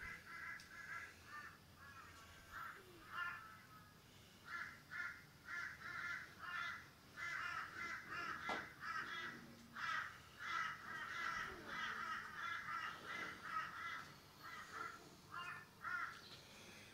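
Birds calling in long runs of short, repeated notes, several a second, with brief pauses between the runs.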